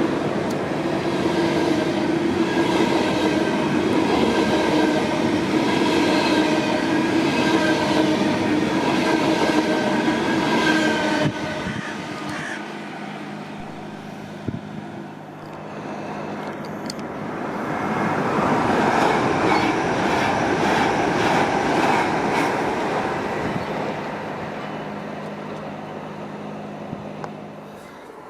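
A train passing through a station, with a whine of several steady tones over rolling noise that drops off suddenly about eleven seconds in. A low steady hum follows, and the rail noise swells again about two-thirds of the way through, then fades.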